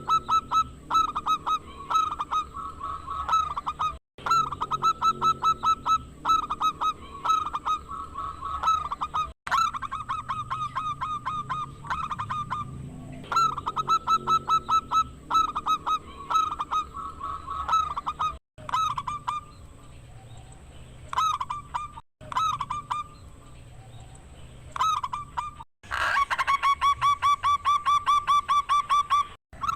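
Zebra dove (perkutut) cooing in long runs of short, quickly repeated notes. The runs are broken by several abrupt cuts, as in spliced lure audio, and get faster and denser near the end.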